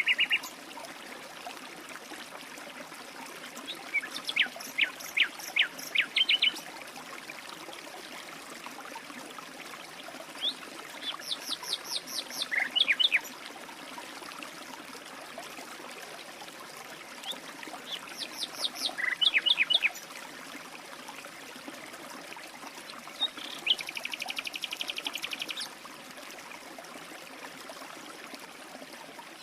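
Songbirds singing in four short spells of quick, high chirps and trills, one of them a fast even trill, over a steady background of running water like a stream.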